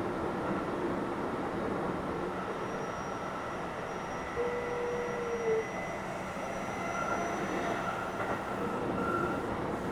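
Keio 7000 series electric train running, a steady rumble of wheels on rail with faint whining tones. A short steady tone sounds for about a second near the middle.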